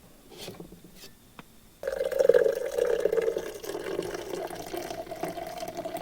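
Liquid being poured into a container, starting suddenly about two seconds in after a few light clicks, with a ringing pitch that shifts as the vessel fills.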